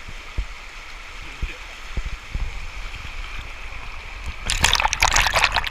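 Flowing stream water with a few low knocks, then loud splashing about four and a half seconds in.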